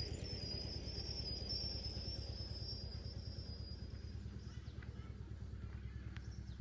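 An engine running steadily with a fast, even low pulse that slowly grows fainter. A high steady tone sounds over it and stops about four seconds in.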